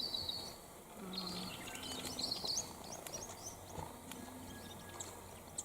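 Small bird singing: a quick run of high chirping notes at the start, a second run about a second later that rises at its end, then scattered faint chips.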